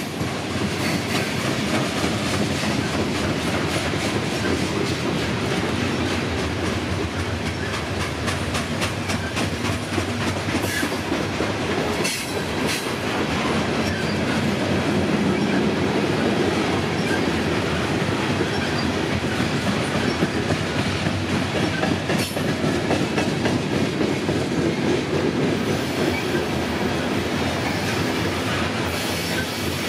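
Loaded Norfolk Southern coal hopper cars rolling steadily past, their steel wheels clicking repeatedly over the rail joints in a continuous rumble.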